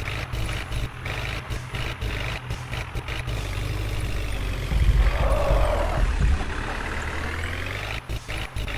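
Heavy diesel engine of a backhoe loader or tractor running, with a louder surge about five seconds in and a pitch that sweeps gently up and down after it.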